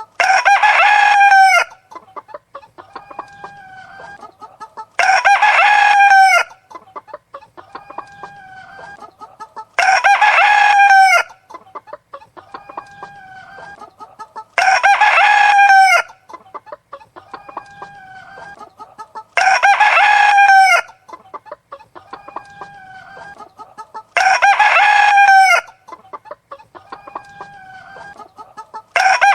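Rooster crowing loudly about every five seconds, six times plus the start of a seventh near the end, with chickens clucking more quietly between the crows.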